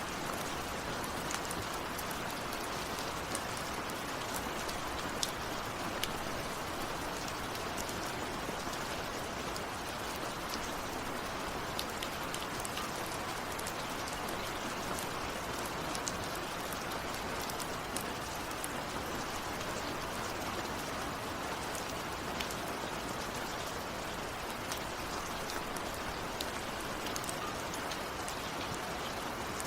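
Steady rain falling, with many sharp taps of individual drops scattered through it. No thunder.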